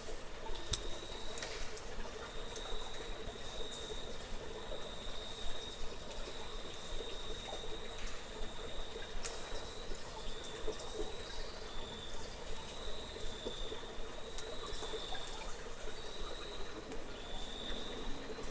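Natural ambience of an insect, cricket-like, keeping up a high, steady trill that wavers and breaks now and then, over a soft low hum of background noise with scattered sharp clicks.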